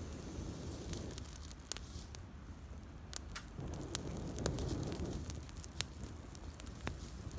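Wood campfire burning, crackling with scattered sharp pops over a low steady noise.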